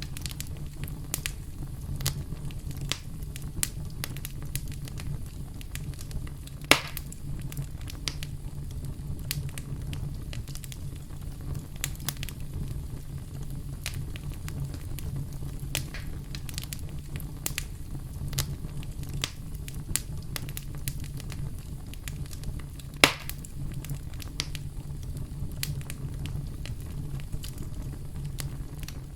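Wood campfire burning and crackling, with a steady low rumble and many small irregular snaps, and two louder pops, at about 7 seconds and near 23 seconds.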